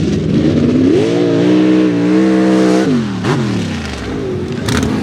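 Mega mud truck engine revving up, holding at high revs for about two seconds, then dropping off sharply about three seconds in.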